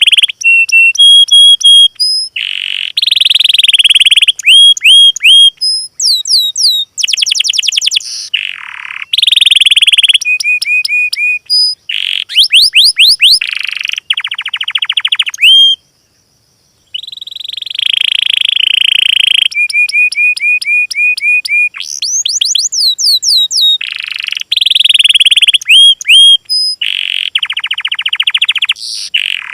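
A songbird singing a fast, varied song: buzzy trills, quick runs of rising whistles and rapid ticking series, with a short pause a little past halfway.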